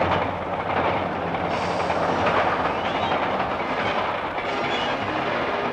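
A train running past close by at speed: a steady noise of wheels on the rails.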